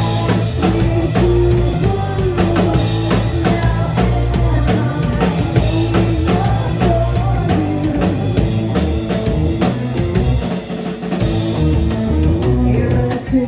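A live rock band playing an instrumental passage: a drum kit keeping a steady beat under guitar and bass, with a wavering melody line on top.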